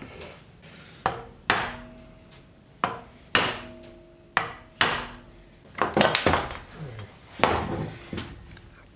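About eight sharp hammer blows on a metal turbocharger housing, irregularly spaced, several leaving a brief metallic ring. The last few come closer together.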